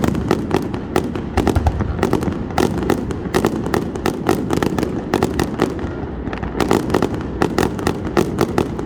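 Fireworks going off: a dense, continuous barrage of rapid sharp cracks and pops, several a second, over a steady low rumble.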